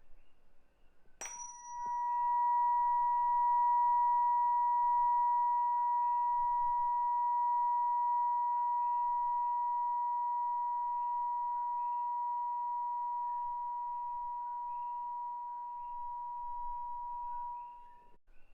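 963 Hz Solfeggio tuning fork struck once about a second in, with a sharp click, then ringing a steady pure tone that fades slowly and stops shortly before the end.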